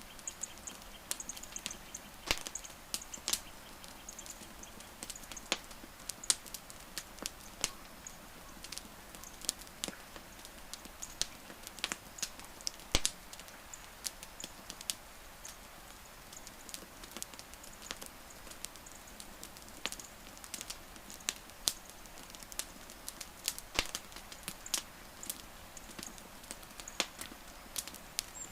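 Wood fire crackling: irregular sharp pops and snaps, several a second, some much louder than others, over a soft steady hiss.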